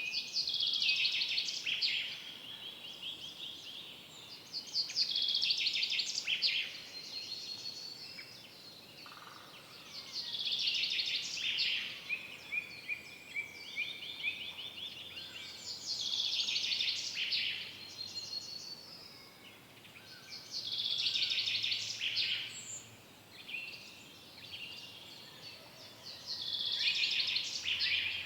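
Forest songbird singing a rapid trilled phrase of about two seconds, repeated roughly every five seconds, six times in all. Fainter calls from other birds fill the gaps.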